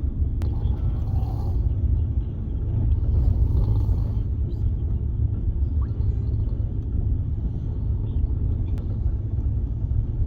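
Steady low rumble of a moving express passenger train heard from on board, with a couple of faint clicks.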